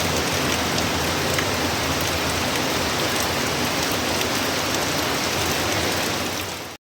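Steady rain from a hurricane falling and hitting surfaces, with scattered drip ticks; it fades out quickly near the end.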